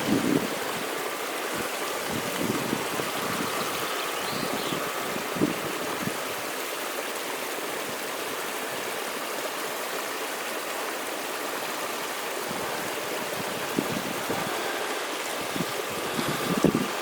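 Small stream of fresh water running steadily off stone, with a few faint knocks.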